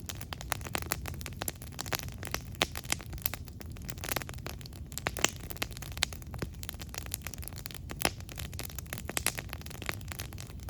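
Campfire crackling: irregular sharp pops and snaps of burning wood over a low steady rush, with a few louder pops.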